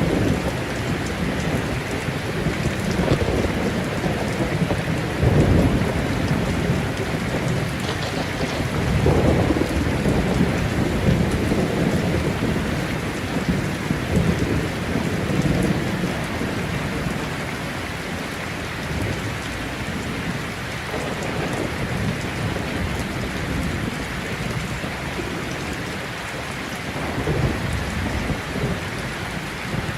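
Thunderstorm: steady heavy rain with rolling thunder rumbling in several low swells, the loudest about five seconds in and again around ten seconds, and a smaller roll near the end.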